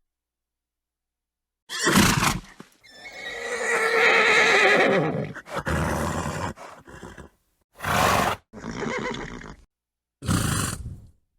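Horse sounds: a short snort, then one long wavering neigh, followed by several more short snorts, with dead silence between them.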